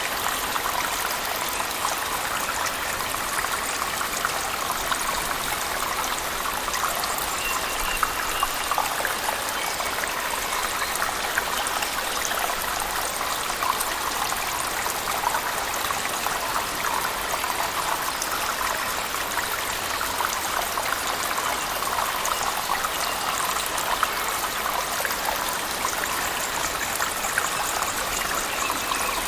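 Steady rush of a waterfall with rain falling, the water noise even and unbroken, with a fine patter of drops.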